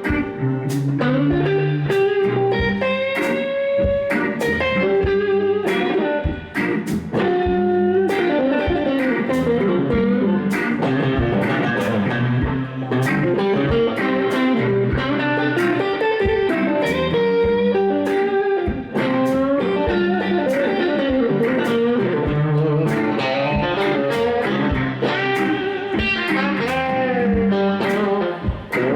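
Blues band playing an instrumental break: an electric guitar plays lead lines with bent notes over a steady beat.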